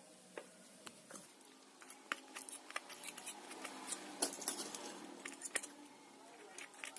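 Irregular light clicks and taps of hand work, coming thicker after about two seconds, over a faint low hum.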